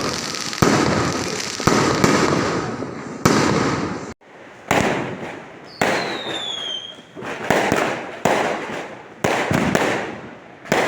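Aerial fireworks going off in a quick series, a loud bang about once a second, each fading away as it trails off. About halfway through, a high whistle glides downward in pitch.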